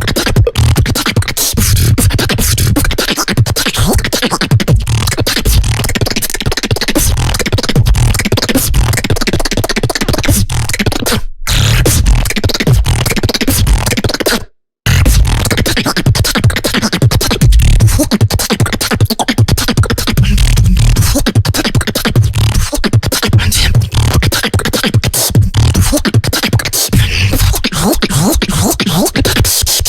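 Beatboxing: a fast, dense stream of vocal percussion with heavy bass pulses and rapid clicks and hisses. It cuts out briefly twice near the middle.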